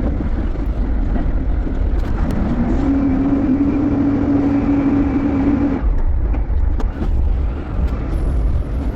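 Reach truck (forklift) running with a continuous low rumble. A steady hum comes in about three seconds in and stops about three seconds later.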